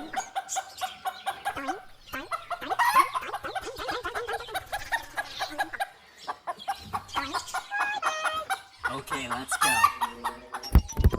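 Chickens clucking and calling over and over in short pitched notes.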